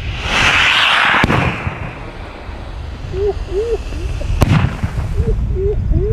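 Fireworks going off: a loud hissing burst in the first second or so, with sharp bangs about a second in and again about four and a half seconds in.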